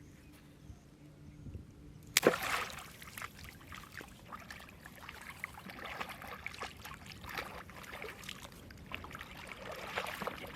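Water splashing and sloshing, beginning with a sudden loud splash about two seconds in and continuing in irregular splashes.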